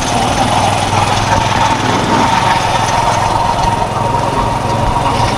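A small vehicle engine running steadily under the travelling camera, mixed with road and wind noise and a steady high tone.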